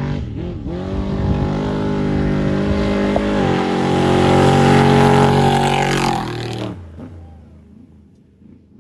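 Off-road race vehicle engine at high revs, growing louder as it approaches and passing close by. Its pitch drops about six and a half seconds in, and then the sound fades away.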